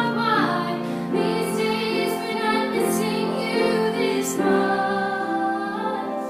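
A woman singing long held notes in a slow melody, with instrumental accompaniment.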